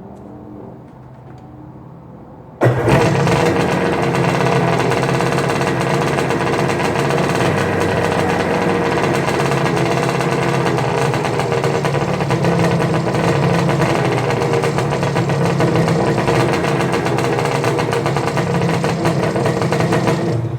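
Kawasaki JS550 jet ski's two-stroke twin engine firing up on its first start after a year in storage, fed from an auxiliary gas can through a primed carburetor. It catches suddenly about three seconds in, runs steadily, and cuts off abruptly at the end.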